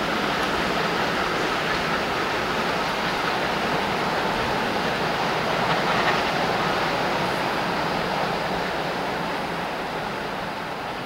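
Special train hauled by the Ol49 steam locomotive with the 6Dg diesel, running away along the line. A steady rumble of the train that eases off slightly near the end.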